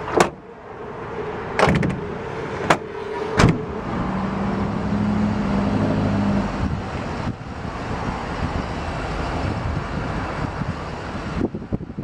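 Van doors being shut: four sharp bangs and latch clicks within the first few seconds, then a steady outdoor rush with a low hum for a couple of seconds.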